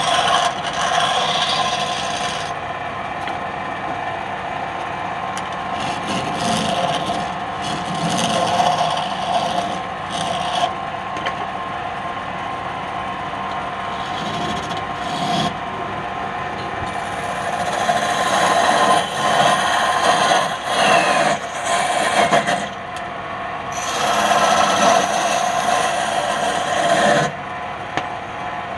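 Wood being cut or scraped on a running wood lathe. A steady motor hum runs under scraping hiss that comes and goes, heaviest in the second half.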